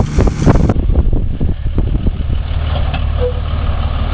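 Vehicle engine running under a steady low rumble, with a cluster of sharp knocks and bangs in the first second and scattered knocks after.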